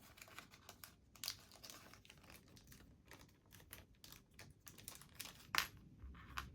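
Faint light clicks and rustling of small model-locomotive parts being handled and sorted by hand, with one sharper click about five and a half seconds in.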